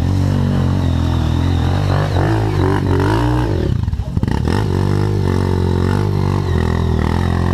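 Off-road dirt bike engine running close by. The revs rise and fall around two to three seconds in, drop off briefly about four seconds in, then settle back to a steady run.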